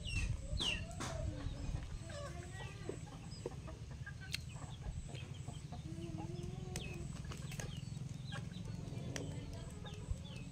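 Chickens clucking, with many short calls scattered through, over a steady low rumble.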